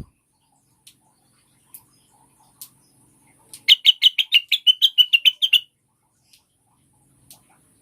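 Female greater green leafbird (cucak wilis) calling: a quick run of about sixteen high chirps over two seconds, starting a little before the middle. Faint scattered ticks come before and after it.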